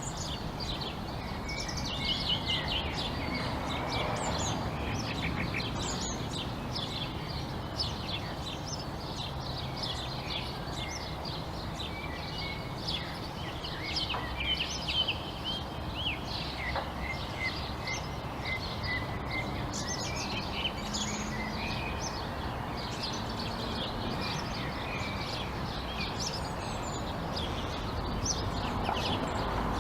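Many small birds chirping and twittering at once, short overlapping calls throughout, over a steady low background rumble.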